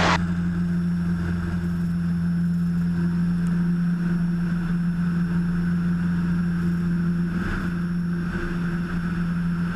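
Cessna 177 Cardinal's single piston engine and propeller running steadily at full takeoff power as the plane accelerates down the runway and lifts off, a constant deep drone.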